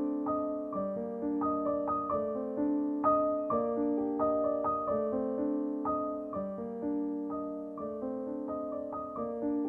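Background piano music: a gentle melody over held chords, with notes changing about every half second.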